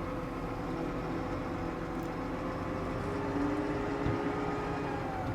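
New Holland T7.315 tractor engine running steadily, an even mechanical drone with a constant low rumble.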